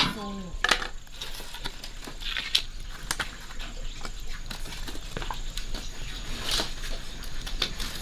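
Irregular soft clicks, taps and rustling, like food being handled and prepared, with a short falling pitched sound at the very start.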